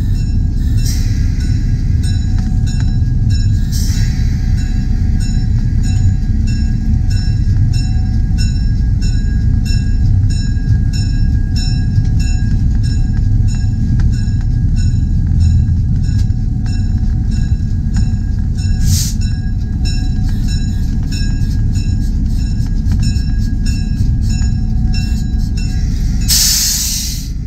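Train running: a steady heavy rumble with rapid clicking of the wheels on the rails. Brief hisses come a few times, the loudest near the end.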